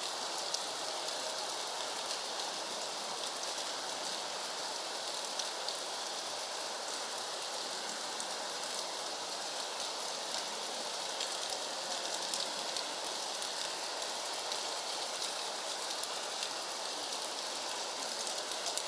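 Steady rain falling: an even hiss with fine pattering drops throughout.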